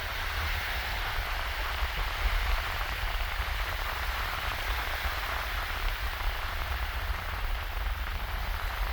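Shallow waves washing and fizzing over a sandy beach: a steady hiss with no single breaking wave standing out. Under it runs a low rumble of wind on the microphone.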